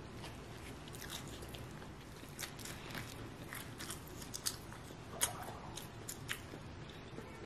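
Quiet biting and chewing of a folded gimbap wrapped in dried laver, a scatter of short crisp crunches with the loudest bite about five seconds in.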